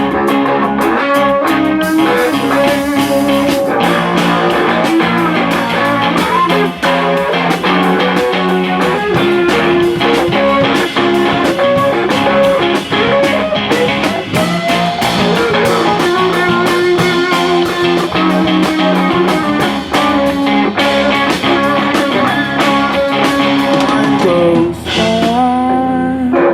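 Live band music with electric guitar, a steady drum beat and no singing: an instrumental break in a rock song.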